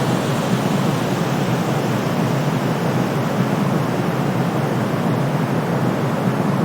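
Steady white noise, deep and even, with no changes.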